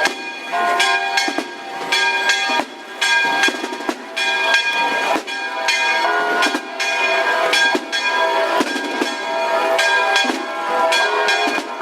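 Church bells ringing in a rapid, continuous peal: strike after strike, with the ringing tones of several bells overlapping.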